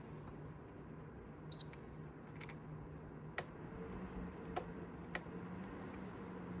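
Dreo space heater's control-panel beep, a single short high tone about a second and a half in, followed by three sharp clicks, over a faint steady hum.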